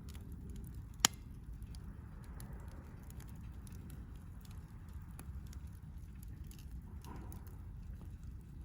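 Wood campfire crackling with scattered small ticks and one sharp, loud pop about a second in, over a low steady rumble.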